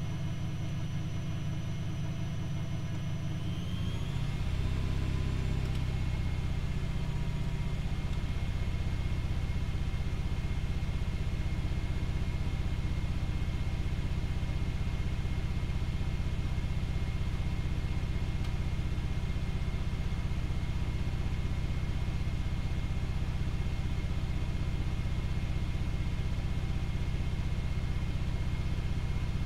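Privileg Multispar 5110 washing machine spinning: the motor speeds up with a brief rising whine about four seconds in, then holds a steady spin speed with a low hum.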